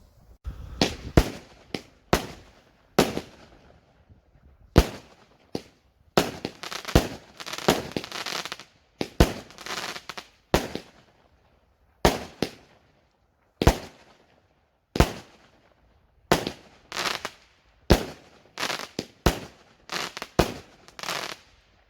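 Fireworks going off: a rapid, irregular string of sharp bangs, several followed by short bursts of crackling.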